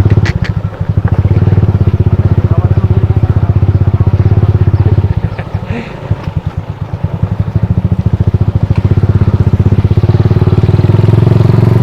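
Motorcycle engine running with a steady, rapid low pulsing. It eases off about halfway through, then picks up again.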